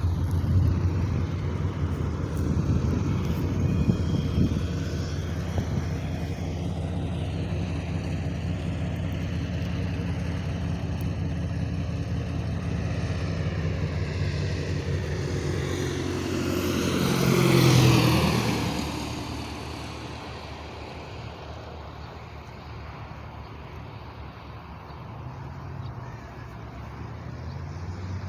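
Light propeller airplane flying low past on its landing approach. Its engine grows louder to a peak about two-thirds of the way in, drops in pitch as it goes by, and fades. A steady low hum runs underneath.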